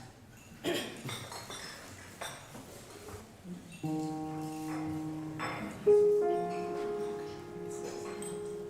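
Keyboard playing two held chords, the first about four seconds in and a louder one about two seconds later, after a few scattered knocks and clinks.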